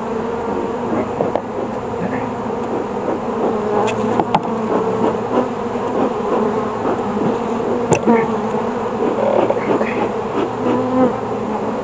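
Honeybees from an opened hive buzzing en masse: a dense, steady drone. A few sharp clicks come through it about four and eight seconds in.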